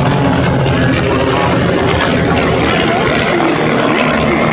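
Aircraft engine noise, loud and steady, with a low drone under a dense rushing noise.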